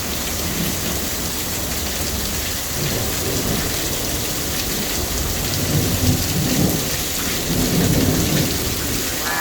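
Heavy thunderstorm rain pouring steadily. A low rumble of thunder builds about five seconds in and dies away near the end.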